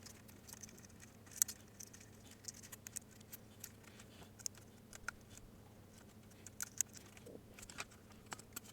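Faint, irregular small clicks and taps of plastic parts being handled and prodded while freeing ribbon cables inside an opened Nintendo DSi, with a slightly sharper click about a second and a half in.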